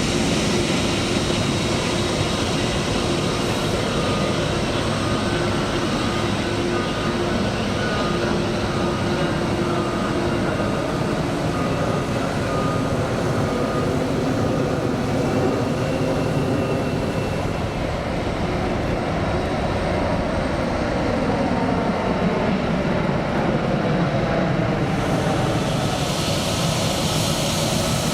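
Jet airliner engines running steadily: a continuous rush with a whine, whose pitch shifts slowly in the second half.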